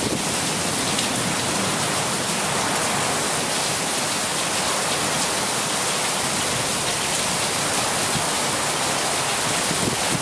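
Heavy monsoon thunderstorm rain pouring down in a steady, even hiss.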